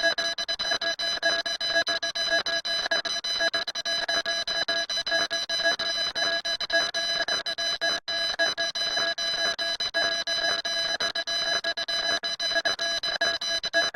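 Electronic alarm sounding continuously: a rapidly pulsing tone with several steady pitches at once, breaking off for an instant about eight seconds in.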